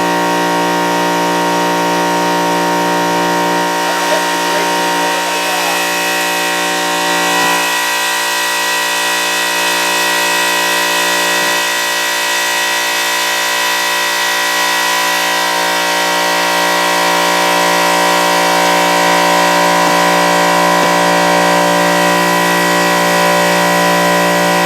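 Air compressor motor running steadily with an even hum, supplying air to inflate a tubeless lawn tractor tire whose beads have not yet sealed on the rim.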